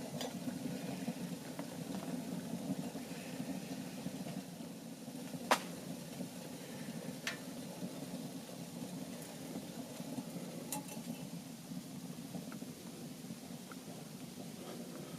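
Wood fire burning in a small tent stove: a steady low rushing with a few sharp crackles of the wood, the loudest about five and a half seconds in and fainter ones at about seven and eleven seconds.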